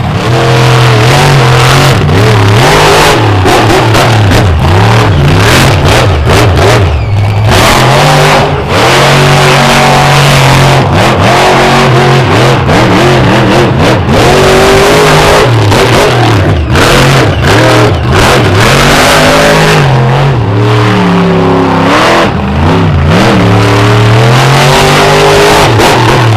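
Monster truck engine revving hard and backing off again and again, its pitch climbing and dropping with each push of the throttle.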